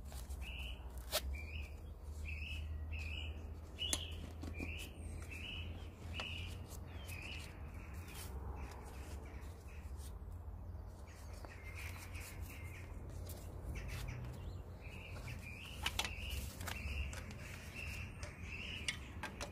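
A bird calling in a series of short repeated notes, about two a second, breaking off for a few seconds in the middle. Over a steady low rumble, a few sharp clicks and rustles come from nylon webbing and plastic buckles being handled as a strap is threaded onto a bicycle's rear rack.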